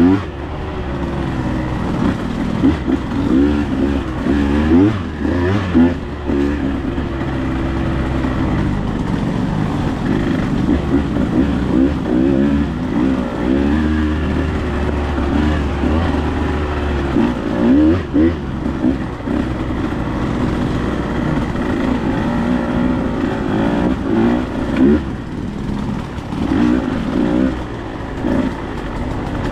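Dirt bike engine running under constant throttle changes, its pitch rising and falling every second or two as it revs and backs off.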